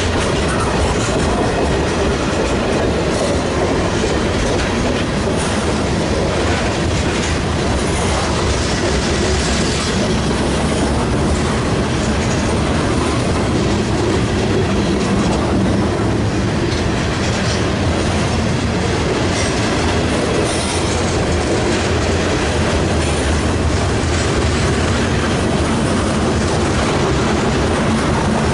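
Freight train cars rolling past on the rails: a steady, loud rumble of wheels on track with clickety-clack from the wheels over rail joints.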